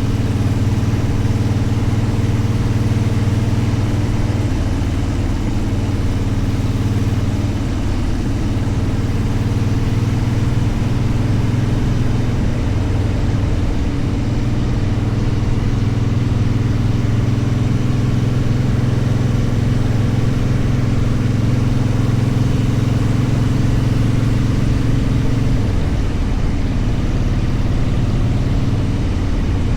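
Motorcycle engine running steadily under way, its note shifting a few times as the speed changes.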